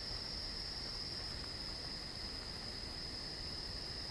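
Night insects, crickets, chorusing steadily: a continuous high trill with a fainter lower one, and a rapid, even pulsing higher still.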